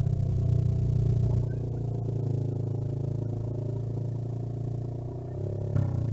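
A vehicle engine running steadily at close range, with a short surge near the end.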